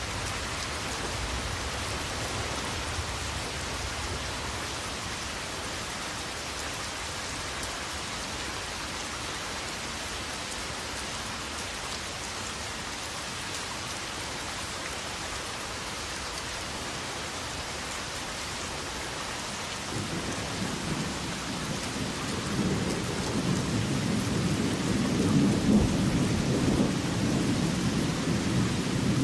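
Steady rain falling, with a low rumble of thunder setting in about two-thirds of the way through and growing louder toward the end.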